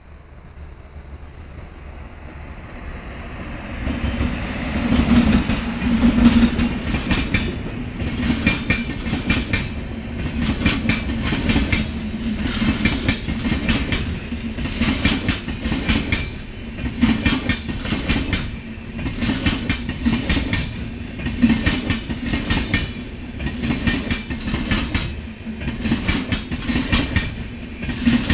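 Express passenger train passing at speed: the approaching locomotive grows louder over the first few seconds, then a long rake of coaches rolls by with a steady rumble and a regular clickety-clack of wheels striking the rail joints.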